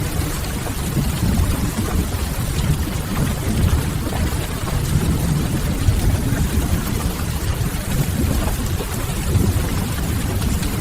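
Steady rain falling, an even hiss over a deep, continuous low rumble, from a rain-on-window ambience mix.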